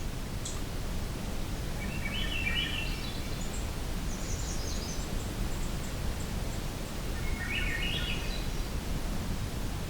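Magnolia warbler singing short, rising songs, about two seconds in and again about seven seconds in, over a steady low background rumble.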